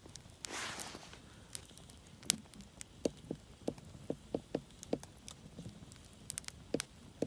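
Hardwood campfire crackling, with scattered sharp pops and snaps, one standing out about two seconds in, and a brief hiss just before the first second.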